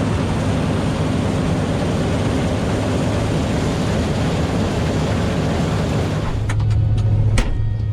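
Heavy farm machinery engine running steadily under a rushing mechanical noise. About six seconds in, the sound changes to a deeper, steadier engine hum with a few sharp knocks.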